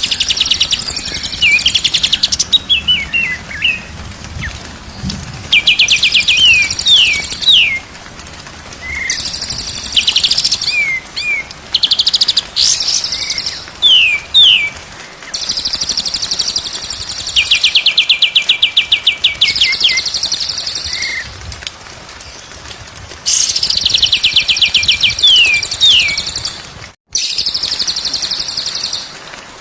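Songbird singing the same loud phrase over and over, about every five to six seconds: a fast buzzy trill followed by a few short slurred whistled notes, played as a training song for cage birds.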